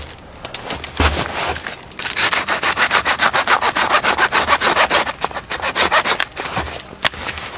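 Wood being sawn by hand in quick, even strokes, about five a second, for some four seconds. A single knock comes about a second in, and a few light clicks follow after the sawing stops.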